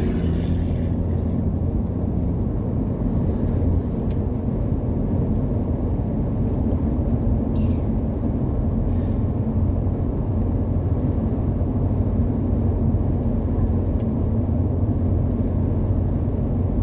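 Semi-truck engine running steadily under way, with a continuous low rumble of engine and road noise.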